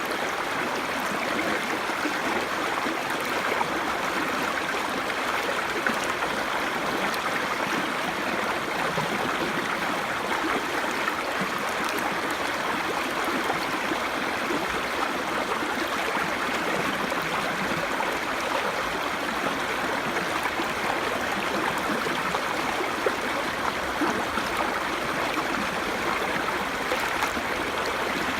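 A small brook babbling: a steady rush of flowing water with fine trickling splashes throughout.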